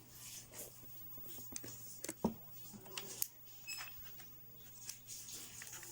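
Light taps, clicks and rustles of small cardboard pieces being handled and pressed into place, with a sharper knock about two seconds in and another about a second later, over a faint steady hum.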